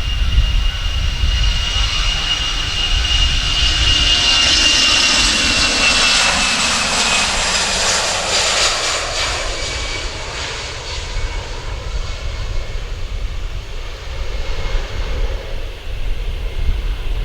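Jet airliner passing close by on its landing approach. The engines' high whine falls slowly in pitch as it goes by, and the roar is loudest about five to eight seconds in, then fades away.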